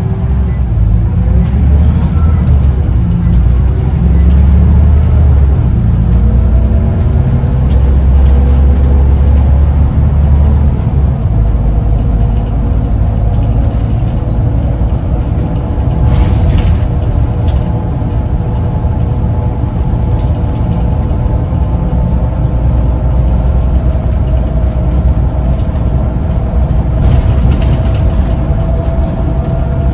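Scania CN94UB bus's diesel engine running under way: a loud, continuous low rumble whose engine note rises in the first few seconds and then holds steadier.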